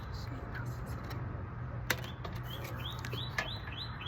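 A small bird repeating a short, high chirp about four times a second, in a run that starts partway through, over a steady low hum. A sharp click about two seconds in and another about three and a half seconds in.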